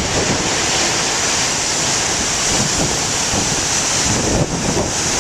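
Large ocean waves breaking in a steady roar of surf, with wind buffeting the microphone through a plastic-wrap cover.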